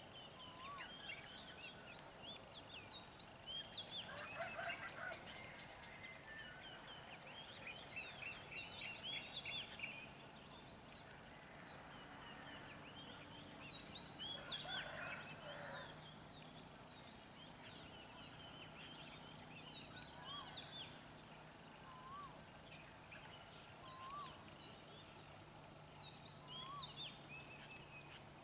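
Songbirds chirping and chattering in the trees, with dense bursts of quick calls in the first third. In the second half a short rising whistle repeats every couple of seconds.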